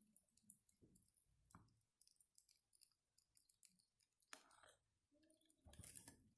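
Near silence with faint, scattered clicks and small ticks, one sharper click about four seconds in.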